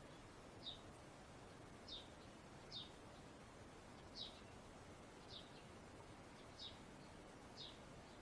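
Faint bird chirping: about seven short, high chirps, each sliding down in pitch, unevenly spaced about a second apart, over low background hiss.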